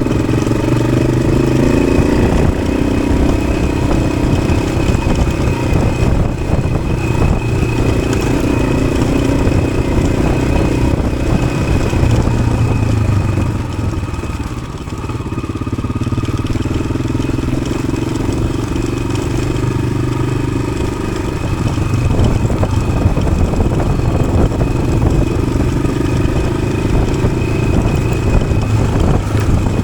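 1993 Yamaha XT600's single-cylinder four-stroke engine, fitted with an Arrow aftermarket exhaust, running as the bike is ridden. The engine note eases off about halfway through, then picks up again.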